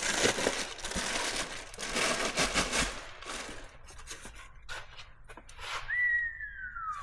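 Plastic packaging rustling and scraping as an intake pipe is handled and unwrapped, then a few light clicks and knocks, and near the end a short squeak that falls steadily in pitch.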